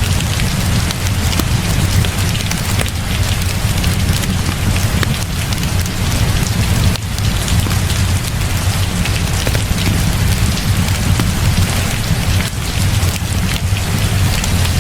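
Heavy rain falling steadily, a dense hiss peppered with drop ticks over a constant deep low rumble.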